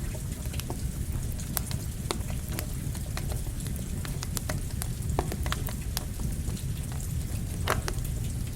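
Campfire crackling, with irregular sharp pops, over a steady hiss of falling rain.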